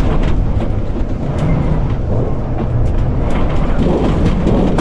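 Strong wind gusting against the body of an electric tricycle camper, heard from inside the cabin: a heavy low rumble of wind with frequent sharp rattles and knocks as the vehicle shakes.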